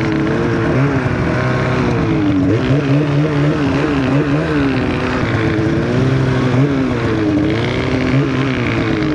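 A 2023 Polaris Khaos Boost snowmobile with a turbocharged two-stroke engine and an SLP aftermarket exhaust can, running under steady throttle. Its pitch rises and falls in gentle swells as the throttle is eased on and off.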